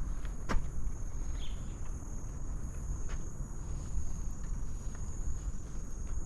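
Insects in tropical forest giving one steady high-pitched drone, over a low rumble. There is a single sharp click about half a second in.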